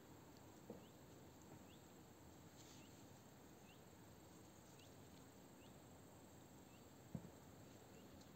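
Near silence, with a small bird chirping faintly about once a second and two soft knocks, one near the start and one near the end.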